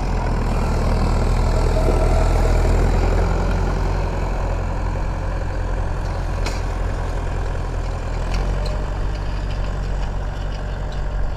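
Industrial Massey Ferguson 3165 tractor's diesel engine running steadily while pulling a cultivator, with a couple of light clicks about six and eight seconds in.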